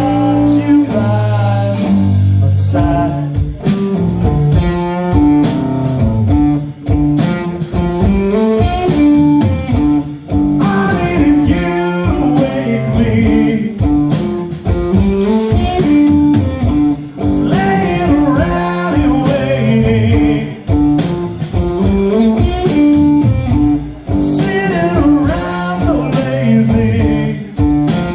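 Live band playing a blues-rock song: guitar, a steady drum beat with cymbals ticking, and a singing voice.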